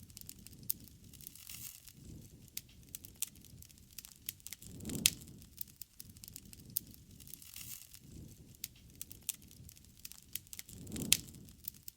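Wood campfire crackling with many sharp snaps and pops. A low rushing swell of flame comes twice, each with one loud pop, about five seconds in and again near the end.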